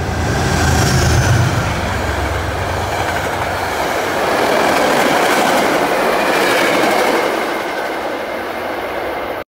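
Passenger trains passing at speed: a deep rumble for the first couple of seconds, then a steady roar of wheels on rail with a faint thin whine above it. The sound cuts off abruptly at the end.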